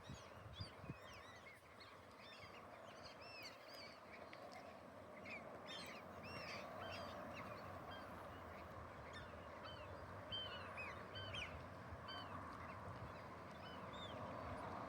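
A flock of birds calling faintly: many short, high, arched calls overlapping one another throughout, over a steady low background hiss.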